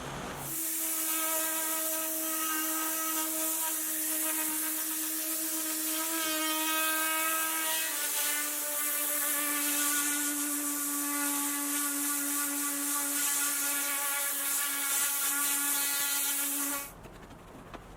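An electric motor-driven tool running steadily, a high whine over a strong hiss; the whine drops slightly in pitch about eight seconds in, and the motor is switched off near the end.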